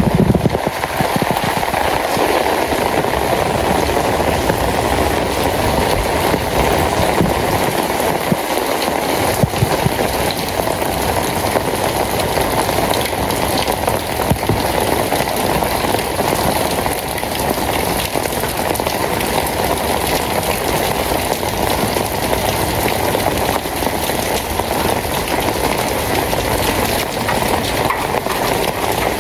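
Steady rain falling, an even, unbroken hiss and patter.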